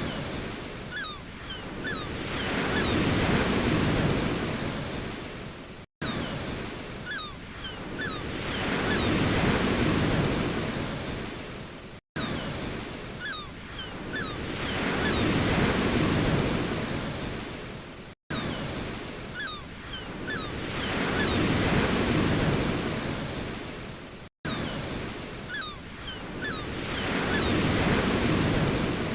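Ocean waves surging and washing ashore, each swell building to a peak and ebbing away over about six seconds. The same short recording loops about every six seconds, with a brief cut to silence at each join, and a few faint high chirps early in each repeat.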